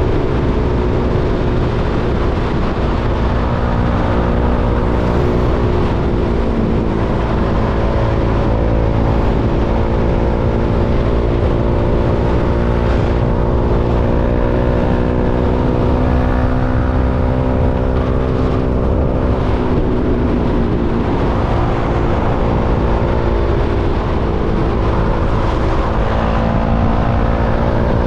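KTM Duke 390's single-cylinder four-stroke engine running steadily at low revs, its pitch dipping and recovering slightly a couple of times.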